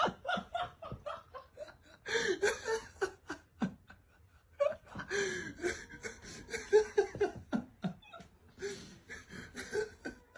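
A person laughing in repeated bursts of short, choppy breaths, with a few pauses between bouts.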